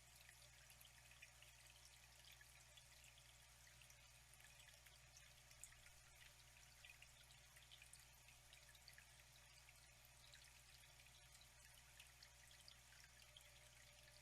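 Faint flowing water, trickling and dripping with many small splashy ticks, over a low steady hum.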